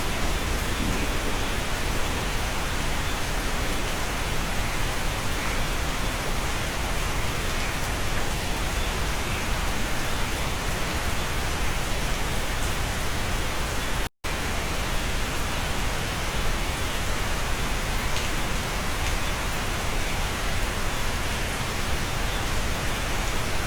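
Steady rain heard from inside a cabin, an even hiss with no single drops standing out. It cuts out completely for an instant about fourteen seconds in.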